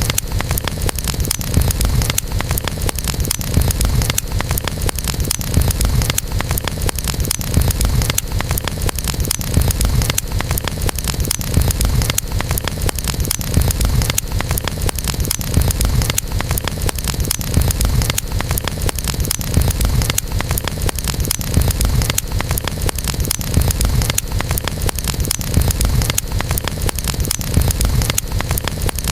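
Wood campfire crackling, a dense, continuous run of sharp pops and snaps over a steady low rumble.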